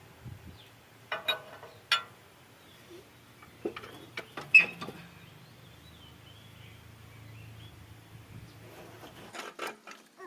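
Scattered sharp metallic clinks and knocks of hand tools and loosened engine parts being handled during a cylinder-head strip-down, the loudest about four and a half seconds in. A faint low hum runs underneath and stops near the end.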